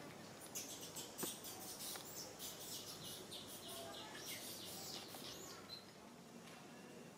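Small birds twittering: a quick run of high-pitched chirps starting about half a second in and dying away near the end, over faint outdoor background noise.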